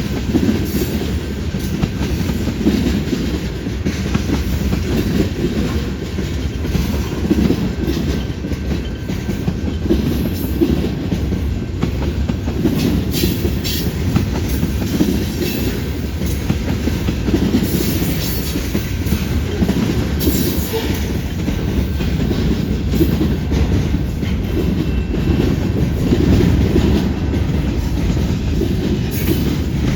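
Freight train rolling past with a steady low rumble, its wheels clacking over rail joints and trackwork in irregular clicks.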